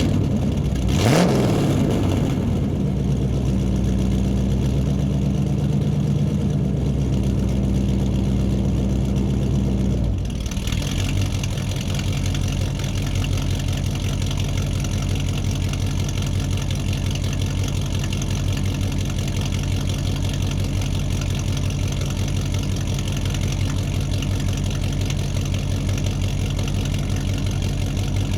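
Car engine starting with a quick rise in revs, running at a fast idle, then dropping about ten seconds in to a steady, even idle.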